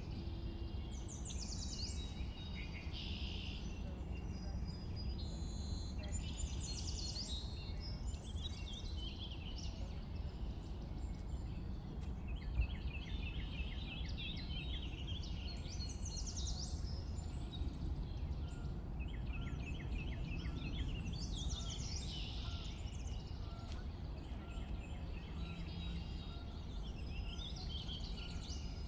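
Songbirds, sparrows among them, singing and calling in overlapping phrases, with quick trills of rapidly repeated notes, over a steady low background rumble.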